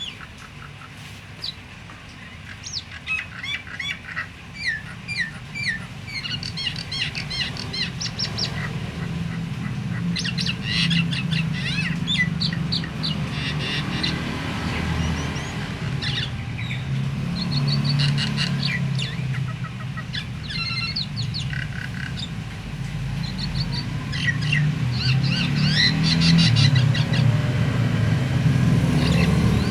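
Starling (jalak) singing: fast runs of chirps, whistles and harsh squawk-like notes in repeated bursts, over a low steady hum. It is the kind of lively starling song that keepers play to set silent caged starlings singing.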